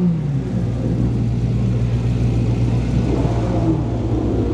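Car engine falling back from a rev in the first half-second, then idling steadily with a pulsing low throb.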